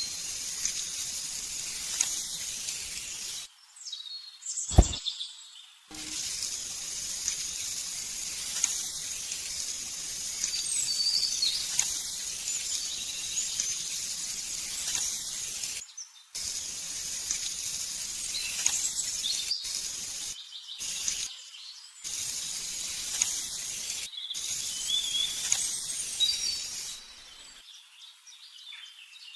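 Birds chirping over a steady outdoor background hiss, broken several times by abrupt cuts to silence, with a single sharp click about five seconds in.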